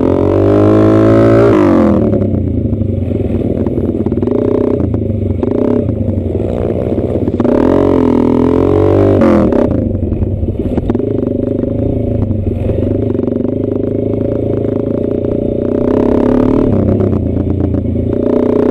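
Motorcycle engine running and revving, its pitch rising and falling near the start and again about eight seconds in, with some clatter.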